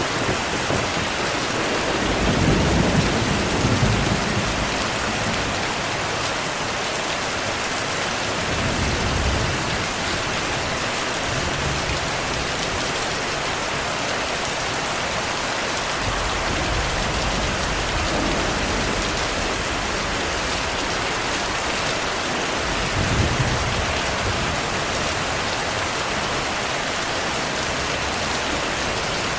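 Steady heavy rainfall hissing, with low rolls of thunder swelling about two seconds in, again near nine seconds and once more near twenty-three seconds.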